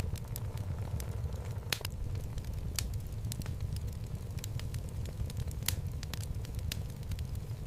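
Wood fire burning in a home fireplace: a steady low rumble of flame with irregular sharp crackles and pops from the logs, a few louder snaps about two, three and six seconds in.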